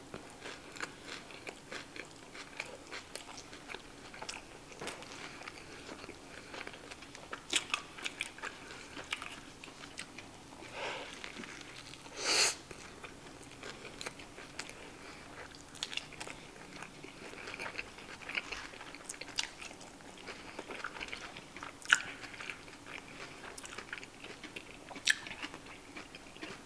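Close-miked chewing of a cheeseburger with lettuce: a steady run of soft, wet mouth clicks and light crunches, with a few louder smacks now and then.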